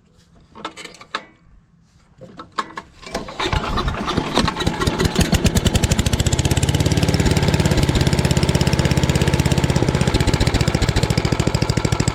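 Craftsman 8.5 hp wood chipper-shredder's small engine starting from cold: a few clicks and knocks, then it catches about three seconds in, picks up speed and settles into steady running to warm up.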